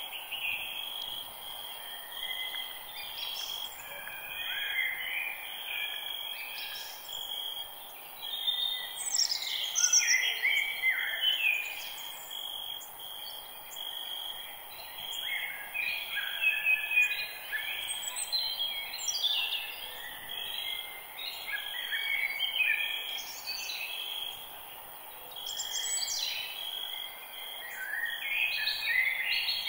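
Forest birds calling and singing, many overlapping chirps and trills, over a steady high insect drone and a soft background hiss.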